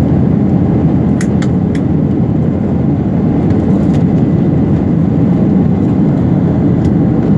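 Steady airliner cabin noise in flight, the engines and rushing airflow heard from inside the cabin. A few light clicks sound a little over a second in.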